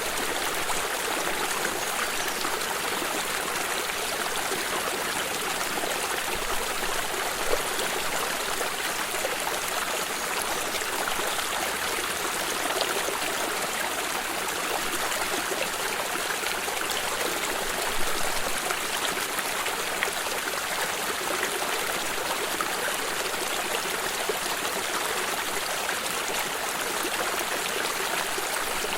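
A stream of water running and trickling steadily, with a few small splashes.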